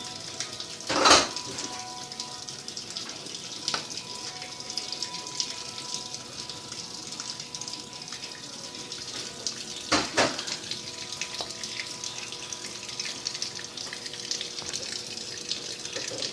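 Maytag washing machine taking in water: a steady rush of water filling the tub, with two loud knocks, one about a second in and another about ten seconds in.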